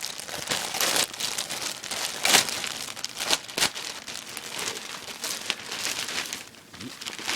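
Plastic packaging bag crinkling and rustling as it is pulled open and a hat is worked out of it, in a run of irregular crackles with a louder rip or crunch about two seconds in.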